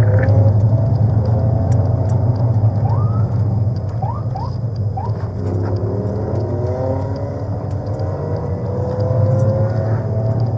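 A vehicle engine accelerating hard, its pitch rising again and again through gear changes, over a steady low road rumble.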